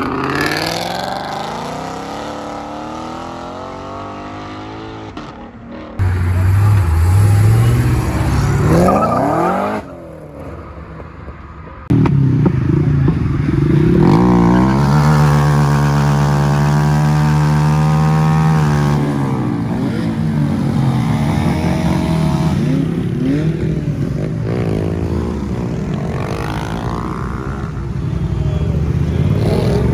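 Car engines revving and accelerating away, in several short stretches joined by abrupt cuts. Around the middle one engine holds a steady high rev for several seconds, then falls away.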